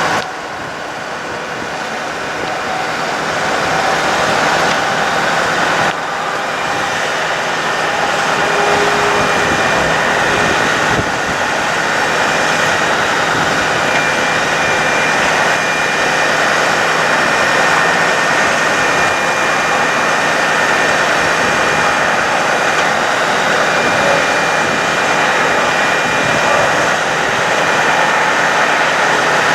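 Bucket truck's engine running steadily: a continuous, even noise with a faint steady whine over it.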